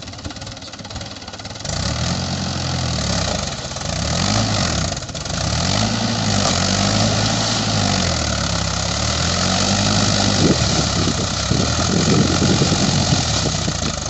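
Tractor engine revving up and down in repeated waves, getting louder about two seconds in, as the tractor strains to get out of deep mud.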